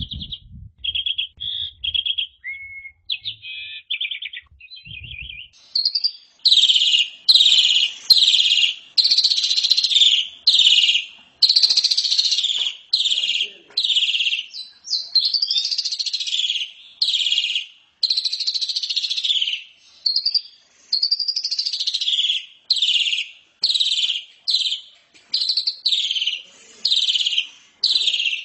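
Asian pied starling (jalak suren) singing. It opens with a few seconds of short, rattling notes, then goes into a long, steady run of loud, harsh, scratchy phrases at about one to two a second.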